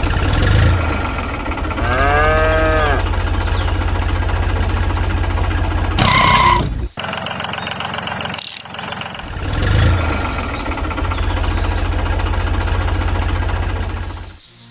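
An engine running steadily with a low rumble. It drops out around seven seconds in and starts again about two seconds later. A short pitched call rises and falls about two seconds in, and a brief tone sounds around six seconds in.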